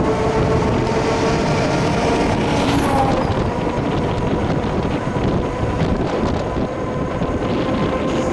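Electric bike being ridden: wind rushing over the microphone with road noise and a steady whine.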